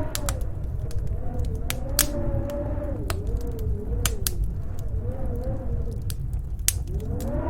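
Wood fire crackling with scattered sharp pops, over a steady low snowstorm wind that howls in a slowly wavering tone.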